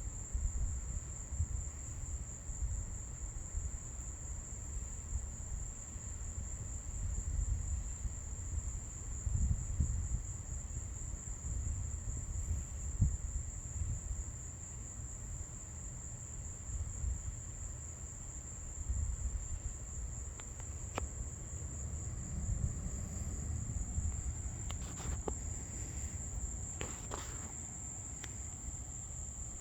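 Night insects, crickets or similar, trilling steadily on one high pitch, over an uneven low rumble. There are a few faint clicks near the end.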